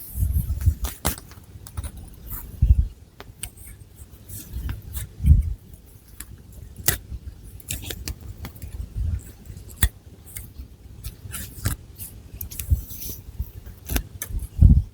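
Long fingernails scratching and working through thick hair and scalp close to the microphone, making irregular sharp clicks and crackles. Dull low thumps come in every few seconds.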